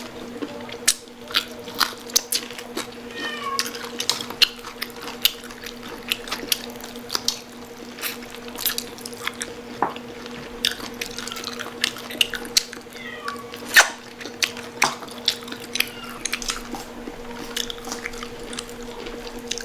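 Crunching and chewing of crispy fried pork skin: many sharp crackles, several a second. A cat meows briefly a couple of times, and a steady low hum runs underneath.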